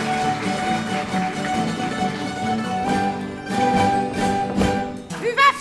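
Folk band of plucked string instruments playing the closing tune of a bailinho, with steady held notes over strummed chords. A brief gliding shout of a voice comes in near the end.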